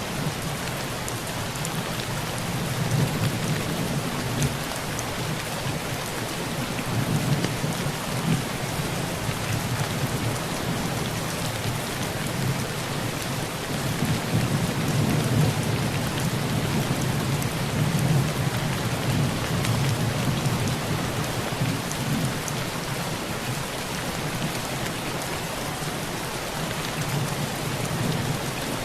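Heavy rain pouring onto a metal tin roof in a steady hiss, with low thunder rumbling under it, swelling and fading several times.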